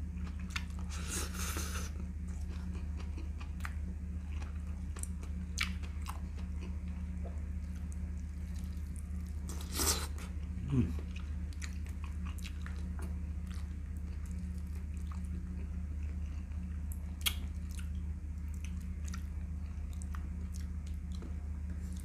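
A person chewing and biting on braised chicken eaten by hand, with wet mouth sounds and scattered short clicks; a few louder smacks, the loudest about ten seconds in. A steady low hum runs underneath.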